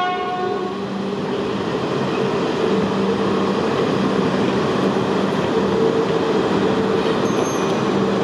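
New E5-series Shinkansen cars rolling slowly past on rails, a steady rumble of wheels and running gear with a low hum. A horn note dies away within the first second.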